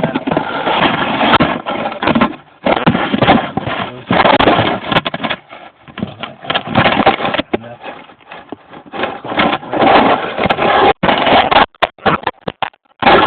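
Car engine running, with exhaust escaping through a hole in the front exhaust pipe: a loud, uneven noise that swells and fades, cutting out sharply a few times near the end.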